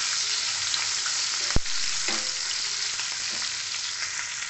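Green bell pepper pieces sizzling as they fry in oil in a kadhai, stirred with a wooden spatula. There is one sharp knock about a second and a half in and a few lighter taps after it.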